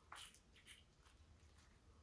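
Very faint chewing of a bite of cheese pizza: a few soft, short mouth clicks, the clearest just after the start.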